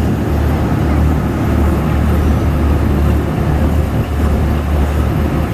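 An amphibious duck boat's engine running, a steady low rumble with no change in pace.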